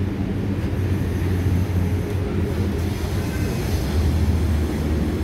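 MTR SP1900 electric train running between stations, heard from inside the carriage: a steady low rumble of wheels on the rails and running gear.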